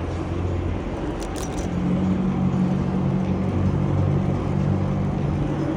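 A car's engine running at a steady idle close by, a low even hum, with a few faint light clicks about a second and a half in.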